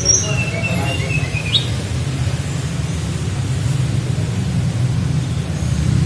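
Flycatcher (tledekan) singing a short run of high whistled notes, the last one rising, over the first second and a half, with a faint note near the end. A steady low hum runs underneath.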